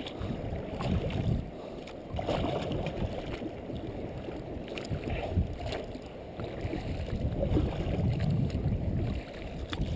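Water sloshing and splashing around a kayak as it is paddled on the open sea, with wind buffeting the microphone in an uneven low rumble.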